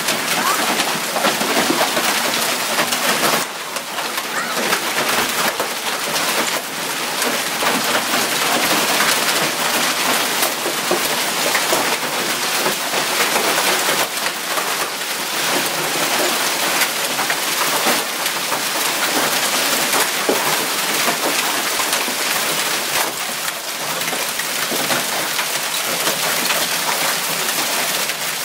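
Freezing rain falling: a steady, dense patter of ice and water hitting surfaces, full of small clicks.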